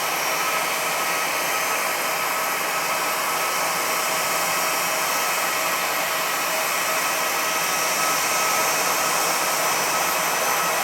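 Airbus A320 jet engines running steadily: an even rushing noise with a steady high whine held through, with no spool-up or change.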